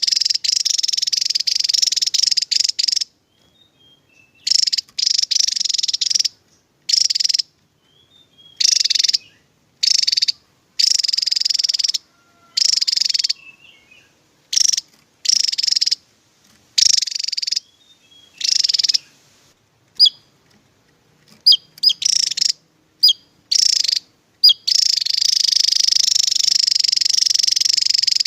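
Javan tesia singing in repeated bursts of high, dense, rapid song, each lasting from under a second to a few seconds with short silent gaps between. About two-thirds of the way in come several short, sharp chirps, followed by a long unbroken burst near the end.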